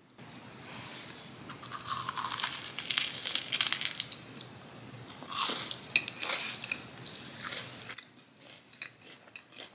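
Close-up crunching and chewing of a crisp fried mochi donut coated in powdered milk and maple sugar, in two spells of crackly bites. The sound is turned up for ASMR, so a hiss sits under the chewing until it drops away near the end.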